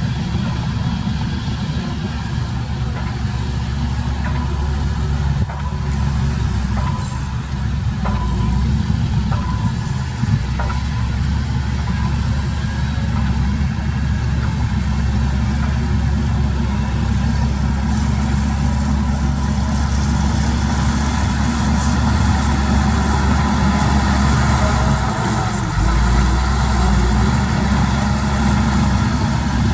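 Heavy diesel earthmoving machinery running steadily, a deep, continuous engine rumble.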